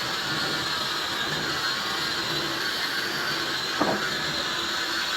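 Steady running noise of a metalworking machine tool, with a faint whine, and one short sharp knock nearly four seconds in.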